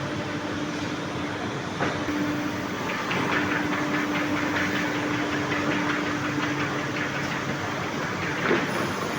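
Power sander running on plywood: a steady motor hum under a rough, scratchy sanding noise that rises and falls as the pad moves over the wood.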